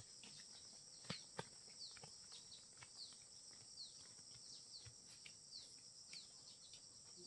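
Faint rural ambience: a steady high drone of insects with a bird giving short falling chirps over and over, and two soft knocks about a second in.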